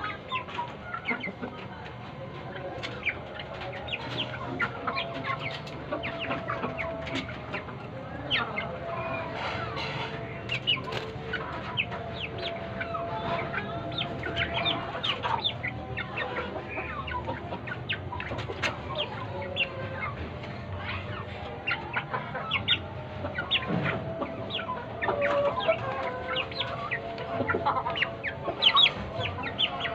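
Aseel chicks peeping in a dense chorus of many short, sharp calls, with chicken clucking among them.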